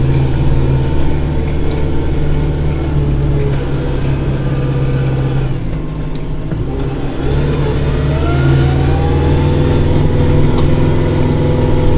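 Kubota tractor's diesel engine running steadily with its snow blower working through snow. It eases off about halfway, then picks back up with a rising whine.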